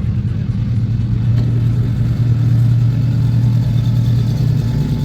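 Car engine running steadily with a strong low hum.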